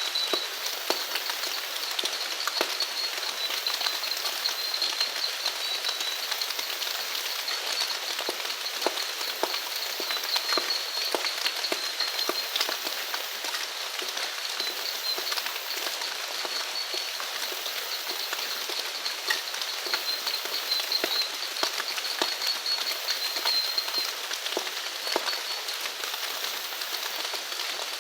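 Steady rain falling, with many individual drops tapping close by. A high, wavering trill from a small animal runs through most of it and stops near the end.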